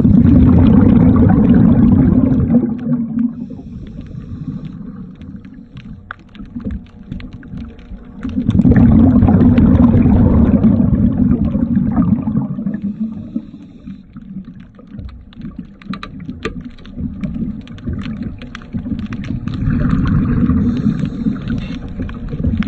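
Underwater recording: bubbling, gurgling rumble that swells up three times, typical of a scuba diver's exhaled bubbles, with scattered sharp clicks in between.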